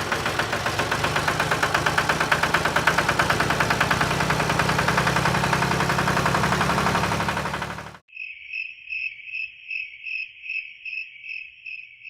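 A loud, rapidly pulsing noise with a low hum under it, typical of a small motor running, stops abruptly about eight seconds in. After it a cricket chirps steadily, about two or three chirps a second.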